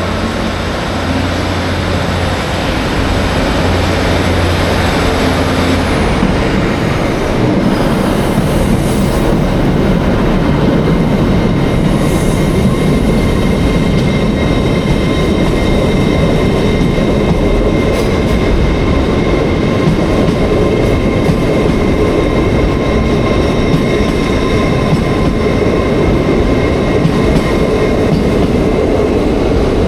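Passenger train moving along the platform at close range: a steady rumble of wheels on rails with faint high steady tones above it. A low hum gives way to a louder, denser rumble about six seconds in.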